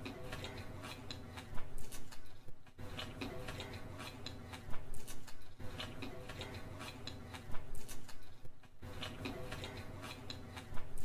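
Close-miked eating sounds of fried rice and Manchurian eaten by hand: chewing with wet, sticky mouth clicks that come in clusters every second and a half to two seconds.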